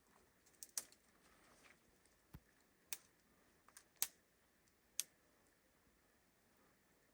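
Near silence broken by a handful of sharp, isolated clicks spaced about a second apart, with one dull thump a little over two seconds in.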